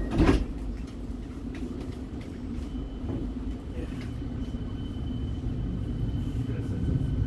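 Siemens Nexas electric train heard from inside the carriage: a steady low rumble of the train running, with a sharp thud about a quarter second in. A thin steady whine comes in after about three seconds, and the sound slowly grows louder.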